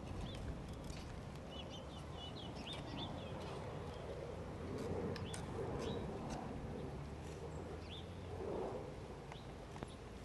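Birds chirping outdoors, short high chirps scattered through, thickest in the second and third seconds, over a steady low rumble of open-air background noise with a few faint clicks.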